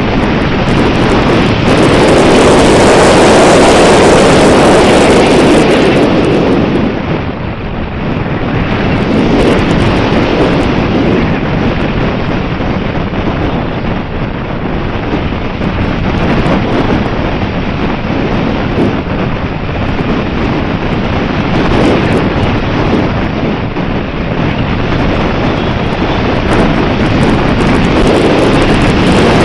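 Wind buffeting the microphone in loud gusts that swell and ease every few seconds.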